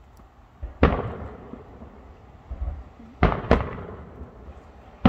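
Distant aerial firework shells bursting. There is a sharp bang about a second in and fainter low thuds near the middle. Then come two bangs about a third of a second apart, each trailing off in a long rolling echo.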